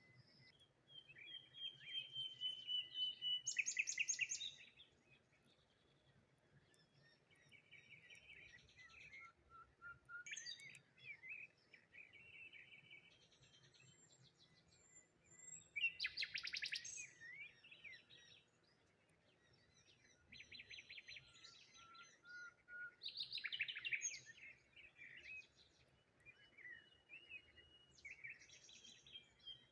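Wild songbirds chirping and singing in short trilled and whistled phrases, in clusters, the loudest bursts about 4, 16 and 24 seconds in.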